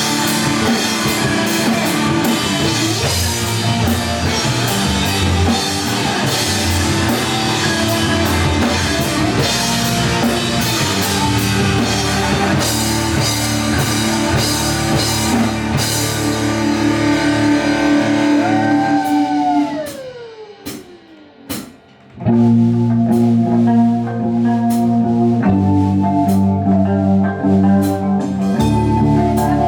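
Heavy metal band playing live: distorted electric guitars, bass and drum kit. About two-thirds through, a held note slides steeply down in pitch as the band drops out for a couple of seconds, leaving only a few sharp drum hits, then the full band comes crashing back in.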